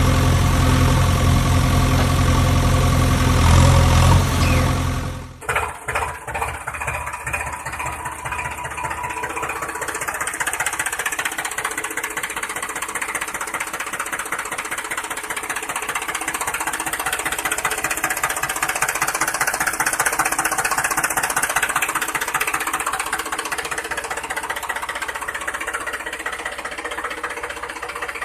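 Engine running steadily with a deep, low hum. About five seconds in it cuts off abruptly and gives way to a lighter, rattling mechanical running sound that carries on steadily.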